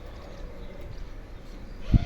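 A pigeon cooing faintly, with a sudden low thump near the end.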